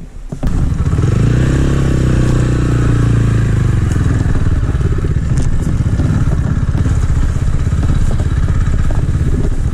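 Small-displacement motorcycle engine starting to pull away about half a second in, its pitch rising and then easing back over the next few seconds before it settles into steady running, with some rattling.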